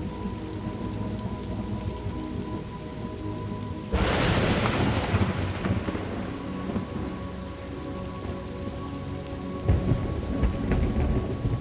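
Thunderstorm ambience: steady rain with low rolling thunder. A sharp thunderclap breaks about four seconds in and fades over a couple of seconds, and another rumble swells near the end.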